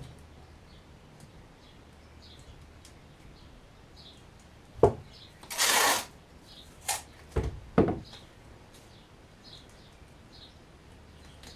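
Faint bird chirps repeat throughout. About halfway, a sharp knock is followed by a half-second scraping hiss, then another knock and two heavier thuds close together, like material or tools being handled.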